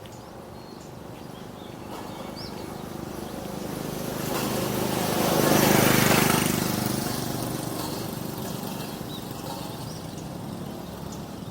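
A motor vehicle passing by, its engine and tyre noise growing louder to a peak about six seconds in and then fading away.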